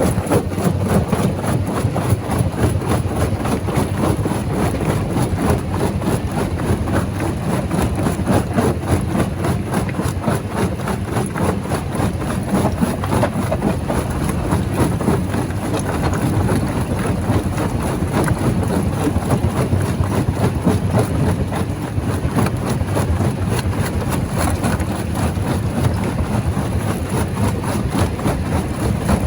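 Large rock crusher running: a steady low machinery drone with a dense, continuous rattle and crackle of stone being broken.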